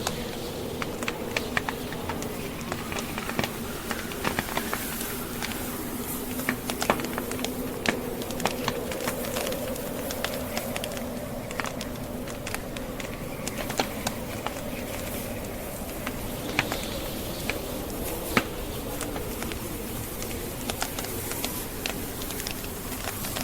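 Wood logs burning in a fireplace, crackling with frequent irregular sharp pops, over the steady low howl of a snowstorm wind.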